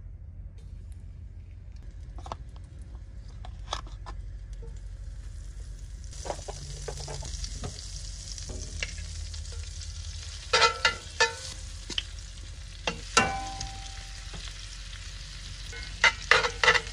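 Egg-and-flour-coated chicken gizzards frying in olive oil in a cast iron skillet, a steady sizzle setting in about six seconds in. Several sharp knocks against the pan come over the sizzle, the loudest near the middle and at the end.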